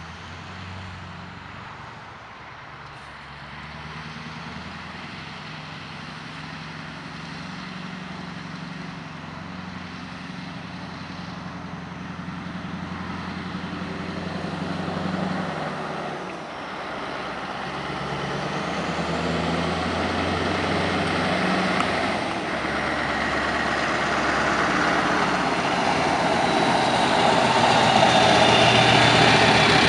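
Scania R620's V8 diesel engine running under load and growing steadily louder, its note stepping in pitch, with brief dips about sixteen and twenty-two seconds in. A high whine falls in pitch near the end.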